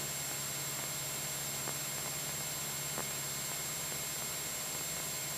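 Steady hiss over a low, even drone from a Cessna 172SP's engine and propeller in cruise flight, with a couple of faint clicks.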